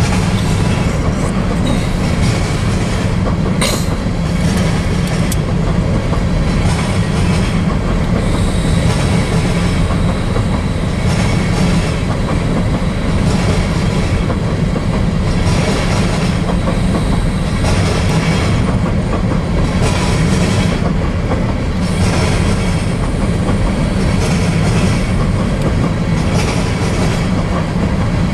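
Covered hopper cars of a freight grain train rolling past close by: a steady heavy rumble with a rhythmic clickety-clack of wheels over the rails, and a single sharp clank about four seconds in.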